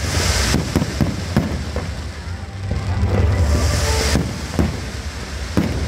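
Fireworks display: a constant low rumble of bursting shells with several sharp bangs, and hissing from ground fountains near the start and again about four seconds in.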